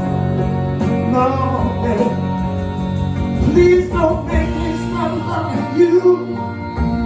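Live band playing a slow soul ballad, with a melodic line bending up and down over steady held chords.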